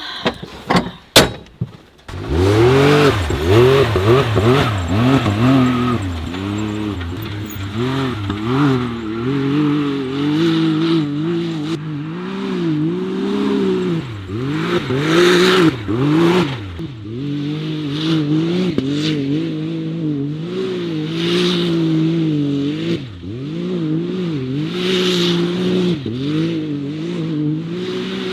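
Can-Am side-by-side's engine running hard while it is driven on a dirt track, its pitch rising and falling over and over with the throttle. A few sharp clicks and a knock come just before the engine note starts, about two seconds in.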